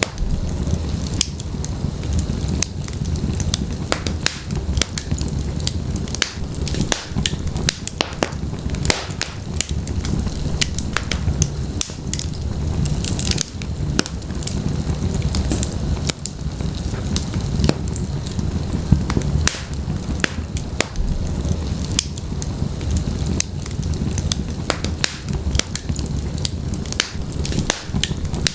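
Wood logs burning in a fireplace: a steady low rumble of the flames with many sharp, irregular crackles and pops.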